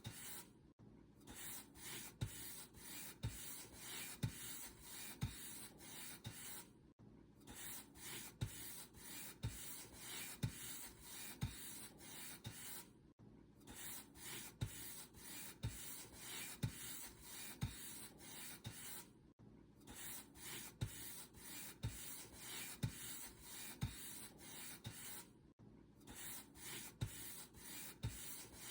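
Paint brush stroking back and forth over a surface: a dry, bristly rub at about two strokes a second, each stroke with a soft low knock. The strokes stop briefly about every six seconds.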